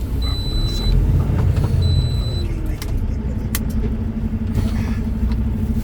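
Engine and road rumble inside a truck cab, with a high electronic beep sounding twice in the first two seconds or so, each lasting well under a second. A sharp click comes past the middle, and a steady low hum sets in under the rumble from about three seconds in.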